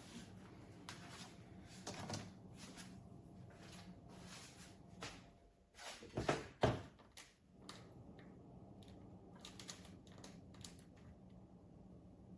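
Faint, scattered clicks and knocks of small objects being handled, with a louder pair of knocks about six seconds in.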